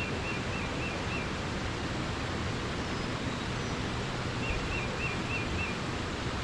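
Steady rush of flowing water. A small bird sings a quick phrase of about five short repeated notes at the start, and again about two-thirds of the way through.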